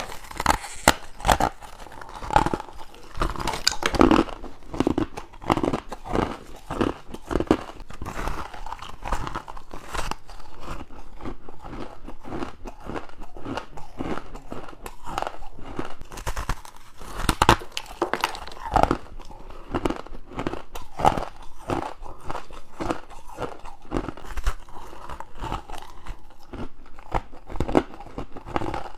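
Close-miked crunching of frozen humidifier frost and crushed ice being bitten and chewed: a quick irregular run of crisp crunches, a few a second, with some louder bites near the start and middle.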